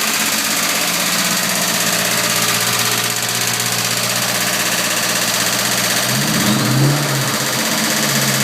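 2003 Ford Mustang SVT Cobra's supercharged V8 idling steadily, carrying the odd noise that appeared when the A/C was switched on and that does not go away with the A/C off. About six seconds in the engine is blipped briefly, rising and falling in pitch, then settles back to idle.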